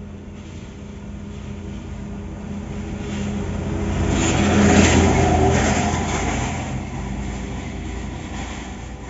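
A heavy truck driving past: its engine and tyre noise build to a peak about halfway through, then fade as it moves away.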